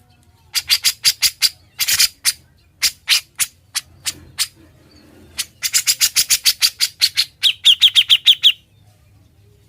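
Grey-cheeked bulbul (cucak jenggot) singing loud, sharp notes in irregular bursts, then a fast even run of about seven notes a second that stops suddenly near the end. The run is the rapid-fire 'ngebren' song style that bird keepers prize.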